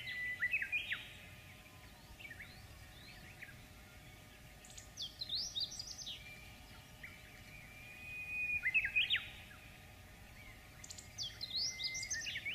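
A songbird singing in short phrases of quick chirps and whistles, repeated every two to three seconds, with a few held whistled notes between them.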